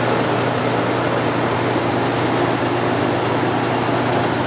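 Large cooling fans blowing steadily, a loud even rush of air over a constant low hum.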